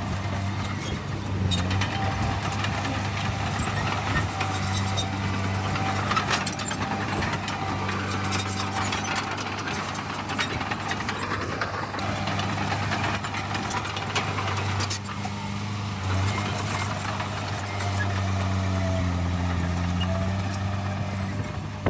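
Heavy diesel earthmoving machinery running steadily, its engine pitch shifting a little now and then, with scattered knocks and rattles.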